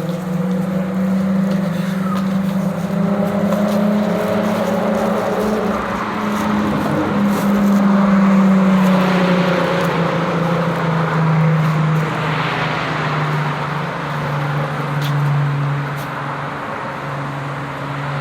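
A low motor hum, like a vehicle engine, runs steadily and sinks slightly in pitch. A rushing noise swells and fades in the middle, like a vehicle passing.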